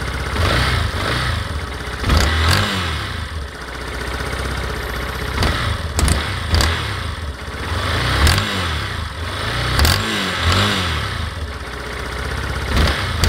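Yamaha Fazer 250's single-cylinder engine idling and revved in about six short throttle blips, with sharp cracking pops during the revs. The owner doesn't know the cause of the noise, which he says is louder when cold and under throttle and sounds as if the engine is about to burst.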